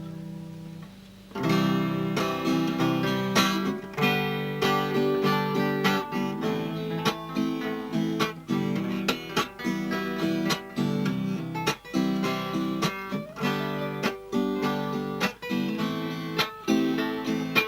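Acoustic guitar: a held chord fades out, then from about a second and a half in the guitar strums chords in a steady rhythm, an instrumental introduction with no singing.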